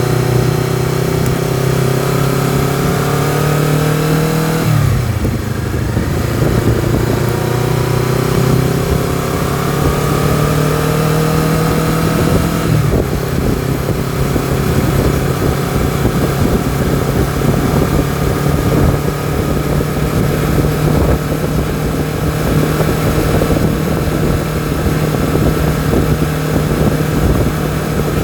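Honda CBR250RR's parallel-twin engine pulling under throttle, its note rising and then falling away sharply twice, about 5 s and 13 s in, before settling into a steady cruise.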